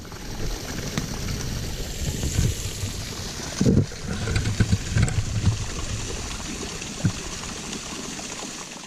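Rushing water of a waterfall or stream: a steady, loud hiss with low rumbling surges in the middle.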